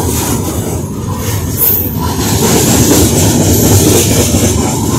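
CSX coal train rolling past, a loud, steady rumble of steel wheels on the rails.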